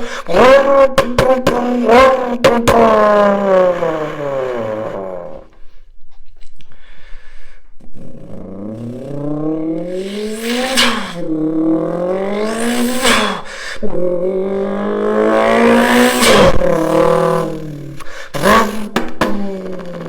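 Car engine revving hard several times, its pitch climbing and dropping with each rev, with sharp crackling pops in between and a brief lull about six seconds in.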